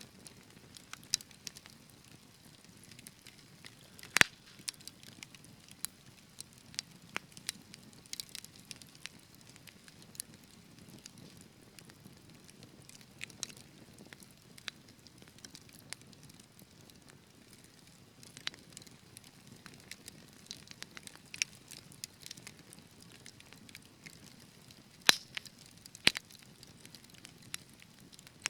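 Wood fire burning in a fireplace, crackling with irregular small pops over a soft low rush of flame; the loudest pops come about four seconds in and again near the end.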